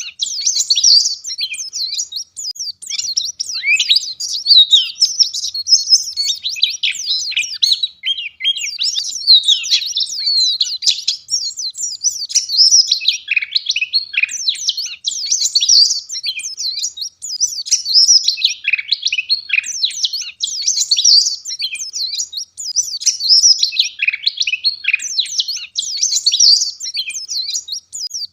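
White-eye (pleci) singing a fast, dense, high-pitched twittering song of chirps and short trills, almost without pause.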